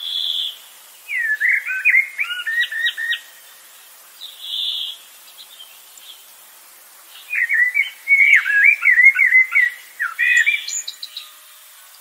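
Bird song: a phrase of quick, sweeping chirps about a second in and a longer one around seven seconds in, with short harsh notes between them.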